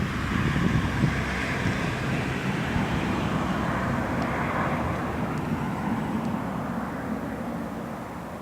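Airliner's engines passing close during a landing in strong wind, a broad drone that swells and then fades near the end, with wind buffeting the microphone.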